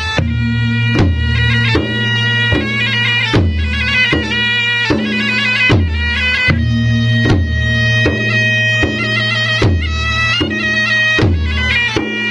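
Traditional Maros gendang drums of the Bugis-Makassar style beating a steady rhythm of about two strokes a second. Over them a loud, reedy wind instrument plays a melody above a held low drone.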